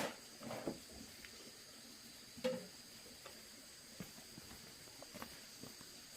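Faint steady high-pitched insect chirring, typical of crickets, with a few scattered soft knocks and taps, the loudest about two and a half seconds in.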